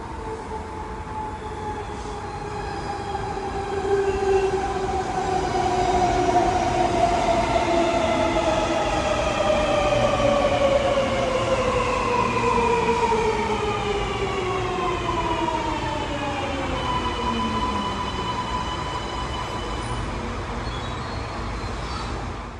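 Sydney Metro train's electric traction motors whining as it brakes into the platform, several tones falling steadily in pitch. About three-quarters through, the falling whine gives way to a steady tone.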